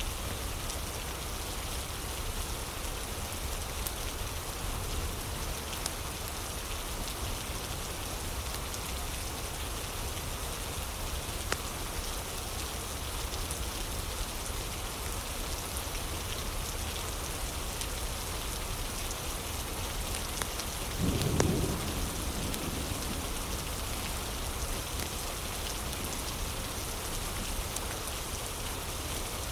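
Steady rain falling, with scattered small crackles from a fire. About two-thirds of the way through there is a brief low rumble.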